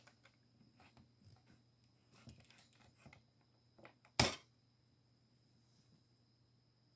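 Faint handling noises: scattered soft taps and rustles, with one sharp click about four seconds in.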